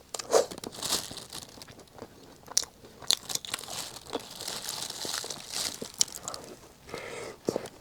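Close-miked eating of a Chaoshan chestnut pastry cake: bites and chewing, with the slightly crisp pastry skin crunching in many short crackles and clicks.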